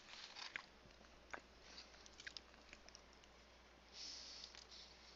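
Quiet chewing of a mouthful of chicken sandwich, with soft wet clicks of the mouth. About four seconds in there is a short hissy sip from a bottle.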